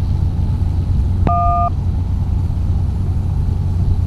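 Steady low rumble of jet aircraft noise. About a second in, a short electronic two-tone beep sounds, like a radio transmission tone.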